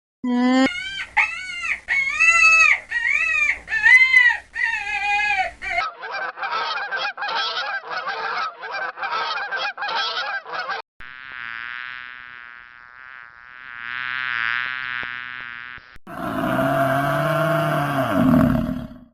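A run of different farm animal calls cut one after another: first a series of rising-and-falling calls, then fast repeated calls, then two long buzzy swells, and a louder call near the end.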